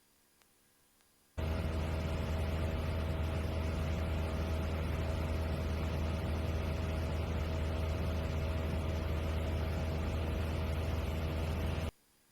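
Light airplane's engine and propeller drone, heard from inside the cockpit: a steady low hum with a noise haze over it. It cuts in abruptly about a second and a half in and cuts out just as abruptly near the end, as a headset microphone or radio channel opens and closes.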